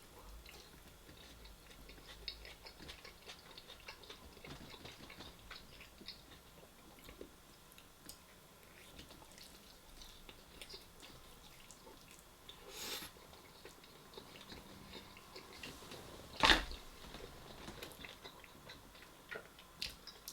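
Close-miked chewing and eating: faint, wet mouth sounds with small crackling clicks, a louder bite-like rustle about two thirds of the way in and one sharp click a few seconds later.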